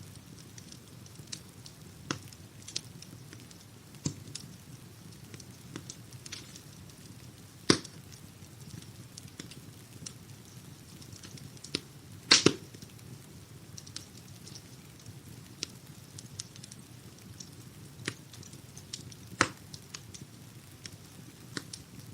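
Wood fire crackling in a fireplace: irregular sharp pops and snaps over a steady low hiss. A few louder pops stand out, about a third of the way in and just past halfway.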